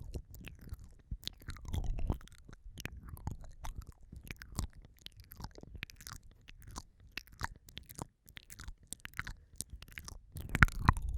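Close-miked wet mouth sounds for ASMR 'ear eating': quick lip smacks and tongue clicks right against the microphone, with louder muffled thumps from contact with the mic near the end.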